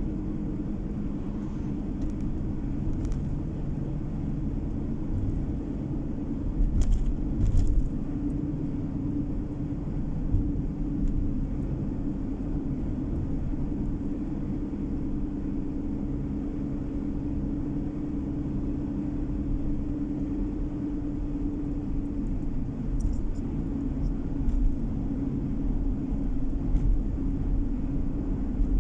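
Car driving on the road, heard from inside the cabin: a steady low rumble of engine and tyres, with a couple of short thumps about seven seconds in.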